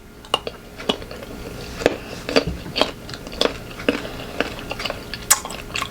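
Close-up crunching as unripe green mango is bitten and chewed, a string of sharp irregular crackles, one or two a second.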